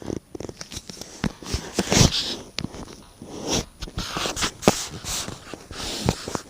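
Irregular scratching, rustling and sharp knocks, the strange noise coming from inside a fireplace.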